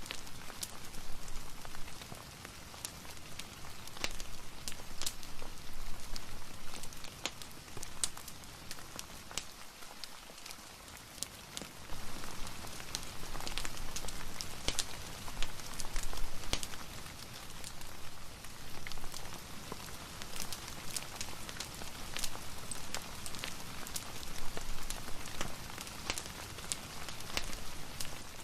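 Rain mixed with a crackling fireplace: a steady hiss of rain with frequent short, sharp crackles and pops scattered throughout, swelling and easing in loudness.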